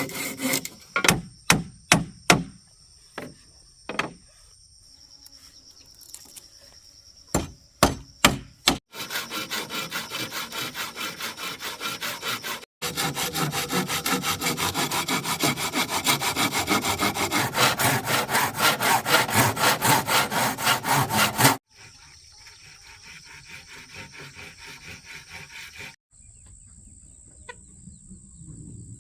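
Hand saw cutting wood in fast, even back-and-forth strokes, after a handful of sharp separate knocks at the start. Near the end the sawing stops and a steady high insect buzz is left.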